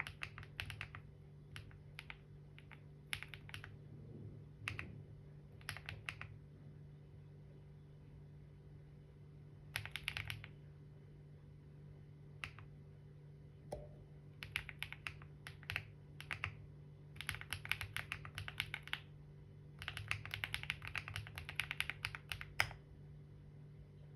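Typing on a computer keyboard: short runs of rapid keystrokes with pauses between them, ending with one harder key strike. A faint steady hum lies underneath.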